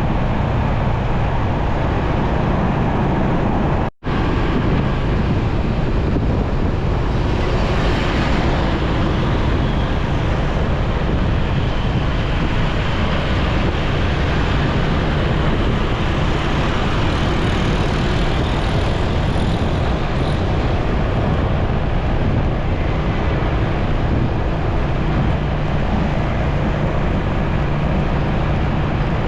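Steady engine and road noise from riding a motorcycle through city traffic. The sound cuts out completely for a split second about four seconds in, and a higher hiss swells and fades around eight seconds in.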